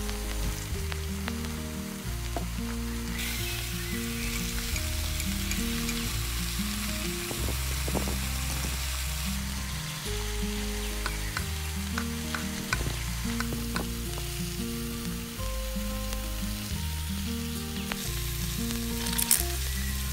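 Food frying in hot oil in a miniature pan, sizzling and stirred with light utensil clicks; the sizzle swells louder from about three seconds in to nine seconds and again near the end. Background music plays under it.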